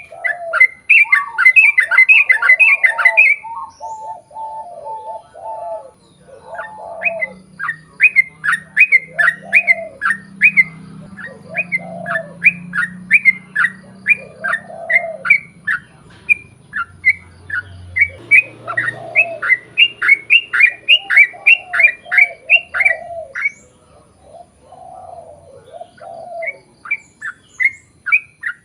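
Yellow-vented bulbul song: long rapid runs of short, bright chirps, about three or four a second, pausing briefly twice, over lower warbled phrases repeating every second or so.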